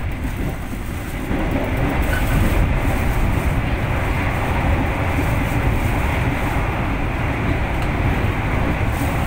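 Train running: a steady rumble and rail noise that grows louder about a second in and then holds.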